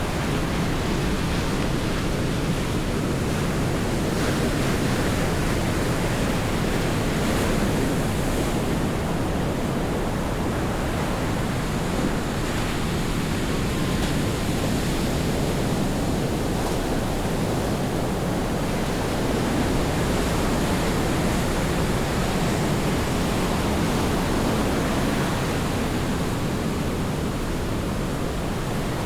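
Steady rush of sea surf breaking and washing up a beach, swelling and easing slowly.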